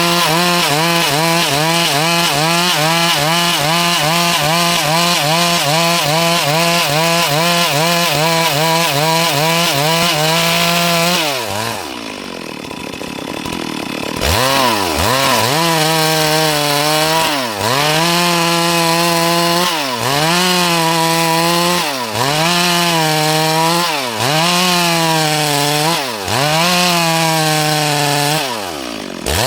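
Two-stroke chainsaw running at full throttle while cutting dry wood, held steady for about eleven seconds. The throttle is then let off for a few seconds, and the saw runs on in a string of cuts about two seconds each, revving up and dipping briefly between them.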